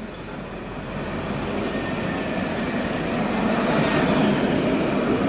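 Nottingham Express Transit Alstom Citadis tram arriving under electric power, a rail rumble and hiss that grows steadily louder as it approaches, with a faint steady whine from its electric drive.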